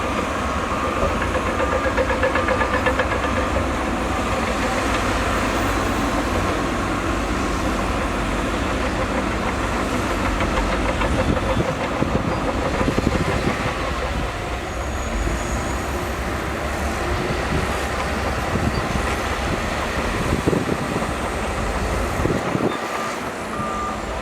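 Heavy diesel earthmoving machinery running steadily under load, with a few knocks and clanks about halfway through and again near the end.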